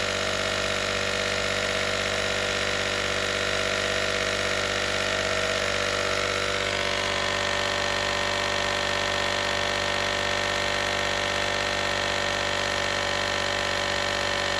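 Small 12-volt air compressor built into a Harbor Freight Viking jump pack running steadily while inflating a tyre, the pressure climbing toward 30 psi. Its tone changes slightly about six and a half seconds in.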